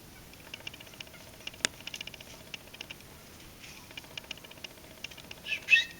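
Small birds calling: a scatter of short, high chip notes, with a louder call with quick pitch glides near the end. A single sharp click about a second and a half in.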